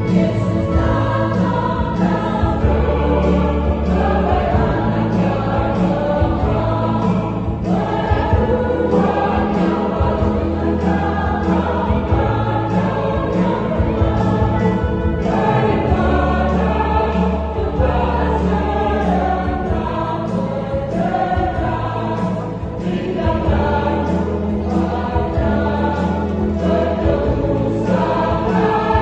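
Church choir singing a Christmas song in many voices, over sustained low notes that change every few seconds.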